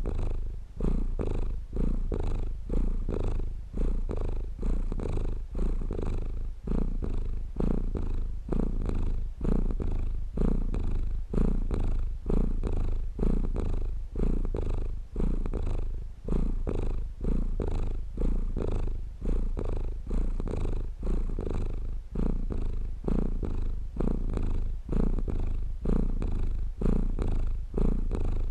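Domestic cat purring steadily, the rough low rumble swelling and easing about once a second with each breath in and out.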